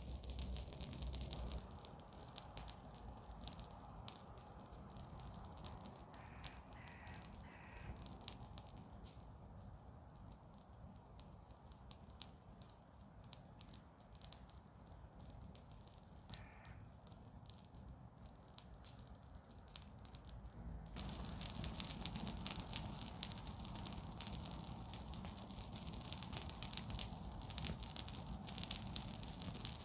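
Garden-waste bonfire crackling and popping steadily, the crackle growing louder about two-thirds of the way through. A bird calls three times in quick succession about six seconds in, and once more about halfway.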